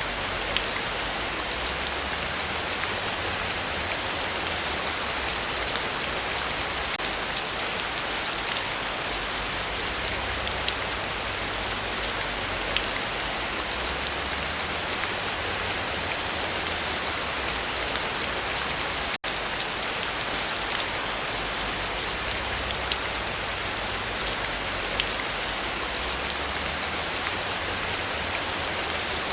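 Heavy rain falling steadily, an even hiss with scattered individual drops ticking. The sound cuts out for an instant about two-thirds of the way through.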